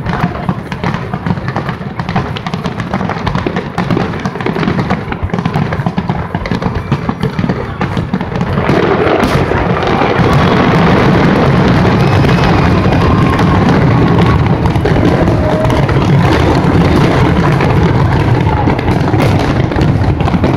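Aerial fireworks shells bursting in quick succession. About eight seconds in, the bursts thicken into a louder, continuous barrage.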